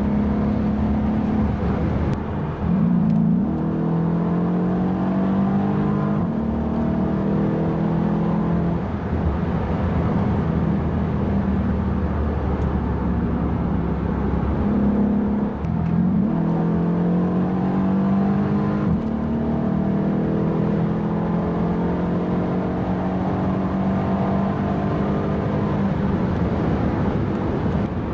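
Mercedes-Benz E63 AMG (W212) twin-turbo V8 heard from inside the cabin under sustained acceleration, its pitch climbing slowly through long gears. There are brief dips at gear changes about two and a half seconds in and again around sixteen seconds in.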